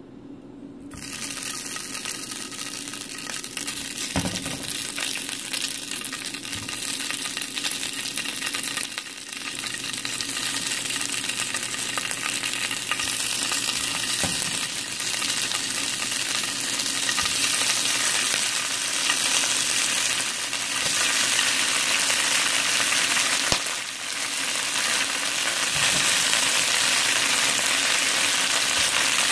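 Slices of Chinese carrot rice cake (white radish cake) frying in hot oil in a nonstick pan: a steady sizzle that starts about a second in and grows louder as more slices go in. A few soft knocks come from the slices and the wooden utensil against the pan.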